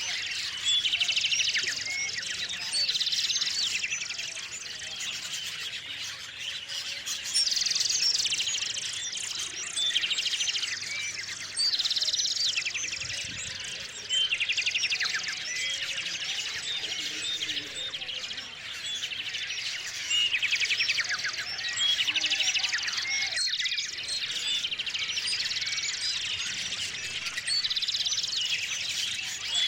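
Small songbirds chirping and singing, with busy trilled phrases that recur every few seconds.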